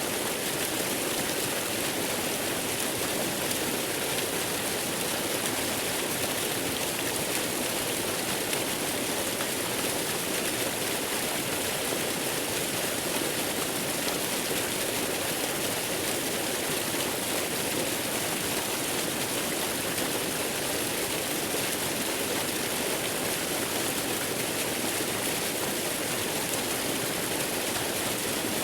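Waterfall's water rushing in a steady, unbroken hiss that never changes in level.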